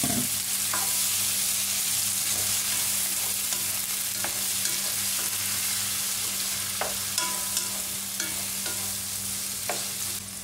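Shrimp, onion and tomato sizzling in hot oil in a stone-coated nonstick wok while being stirred with a wooden spatula. The frying hiss is steady, with a few light knocks of the spatula against the pan.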